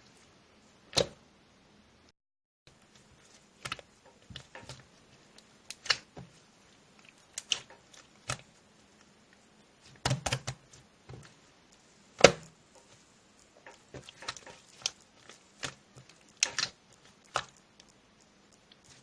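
Irregular clicks and taps, a couple of dozen scattered unevenly, with louder knocks about a second in, around ten seconds in and, loudest, about twelve seconds in. The sound cuts out completely for about half a second near the start.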